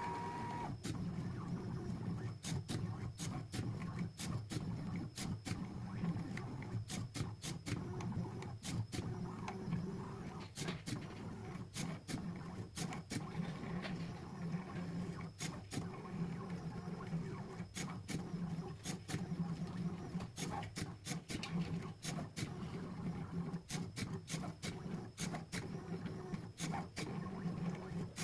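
Pen plotter running as it draws: a steady motor hum with frequent sharp clicks at irregular intervals.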